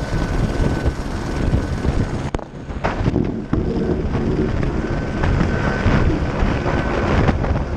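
Helicopter running close by, its rotor downwash buffeting the microphone with heavy wind rumble under a steady high whine. A few sharp knocks come between two and four seconds in.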